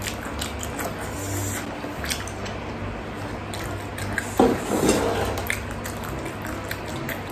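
Close-miked chewing of bakso meatballs: wet squishing and lip-smacking clicks, with a brief louder muffled sound about four seconds in. An electric fan hums steadily underneath.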